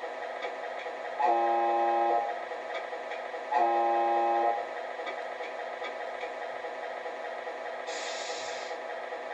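Sound unit of a 1/14 Tamiya Volvo FH16 RC truck playing a steady diesel idle through its small speaker, sounding two horn blasts of about a second each, then a short hiss near the end.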